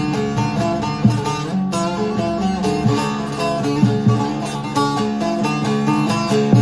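Divan bağlama (long-necked Turkish saz) with a mulberry bowl and spruce top being played: a quick picked melody of short notes over a steady low ringing underneath.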